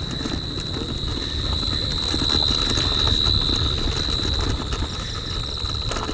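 A steady, high-pitched evening insect drone that swells louder around the middle and eases off again. Under it is a low rumble of wind on the microphone while riding.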